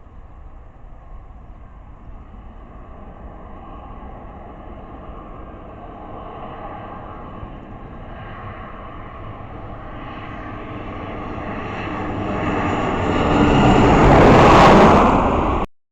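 Airliner on its landing approach, passing low overhead: engine noise grows steadily louder for about fourteen seconds, peaks near the end, then cuts off suddenly.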